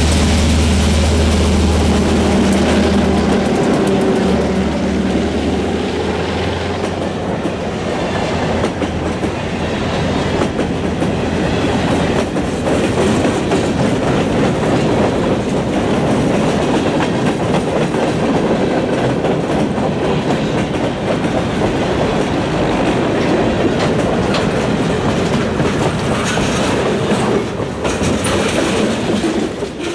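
Freight train passing close by: the lead EMD diesel locomotives' engines drone for the first few seconds, then a long string of freight cars rolls past with steady wheel clatter and rumble on the rails.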